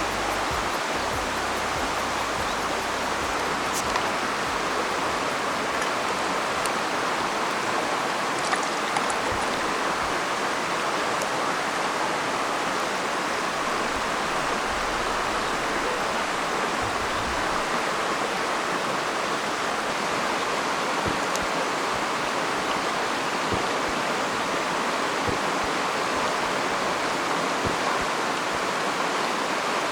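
Mountain stream running steadily, an even rush of water, with a few faint clicks.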